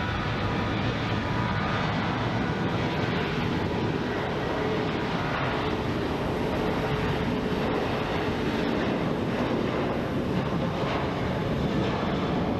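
Airliner jet engines running, a steady rush of noise with a faint whine through the middle.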